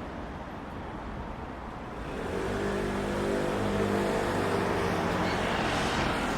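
A motor vehicle passing: its engine and tyre noise swells over a few seconds, with steady engine tones underneath.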